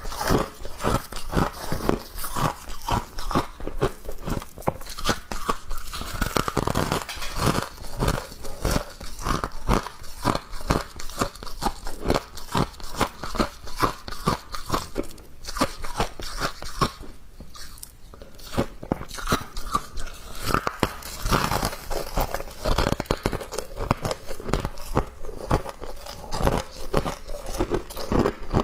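A person biting and chewing thin ice and humidifier frost close to the microphone: a dense, unbroken run of crisp crunches that thins briefly past the middle.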